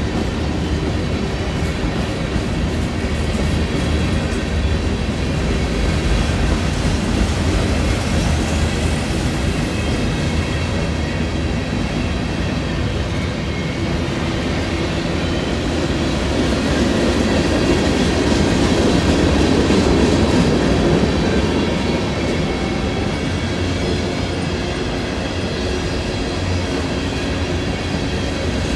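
Covered hopper cars of a freight train rolling past at trackside: a steady noise of steel wheels on rail that swells somewhat about two-thirds of the way through.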